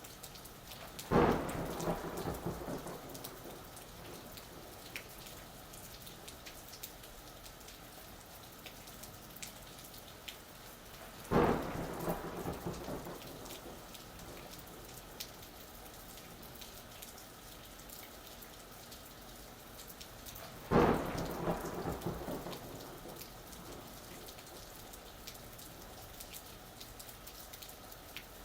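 Steady rain falling, with three sharp thunderclaps about ten seconds apart, each crackling and fading away over a couple of seconds.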